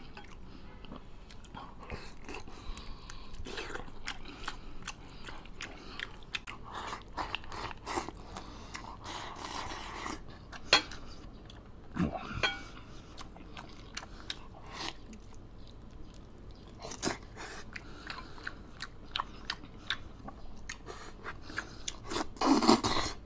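Close-up chewing and mouth noises of someone eating soft, gelatinous braised beef tendon with rice, with scattered sharp clicks and a louder burst of eating noise near the end.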